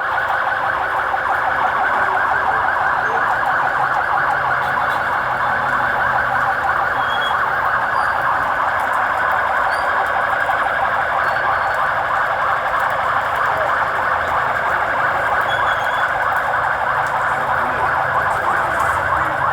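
Sirens sounding continuously, a dense, fast-warbling wail that holds steady without a break.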